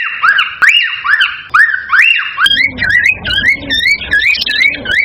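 Cockatiels calling, a rapid run of whistled notes that each rise and fall, about three a second. About two and a half seconds in, the calls change to a different run of notes with a low rumble underneath.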